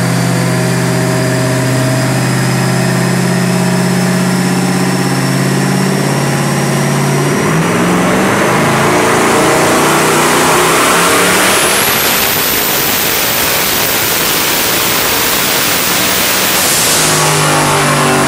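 Turbocharged Ford Coyote 5.0 V8 in a Mustang running on a chassis dyno. It holds steady revs for about seven seconds, then goes into a pull, the revs climbing with a rising turbo whistle. The whistle holds high for a few seconds, then cuts off suddenly near the end as the throttle closes and the engine drops back to steady running.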